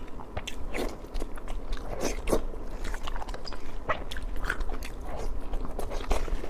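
Close-miked chewing and biting of pork in spicy sauce: irregular wet, crunchy mouth sounds and small clicks.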